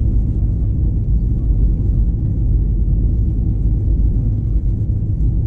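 Loud, steady, deep rumble inside the cabin of an Airbus A321-211 airliner.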